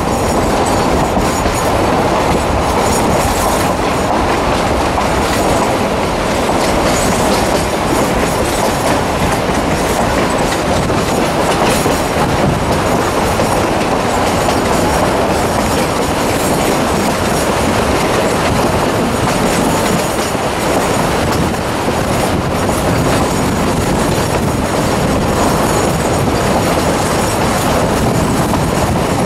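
Narrow-gauge passenger train running along the track, heard from aboard the car: a loud, steady rumble and rattle of wheels on rail.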